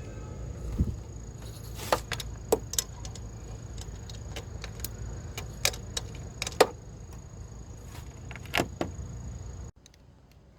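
Several sharp metallic clinks, scattered and irregular, over a steady low hum that cuts off abruptly near the end.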